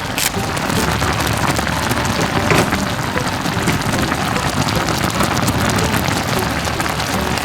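Food sizzling and crackling steadily in a hot frying pan.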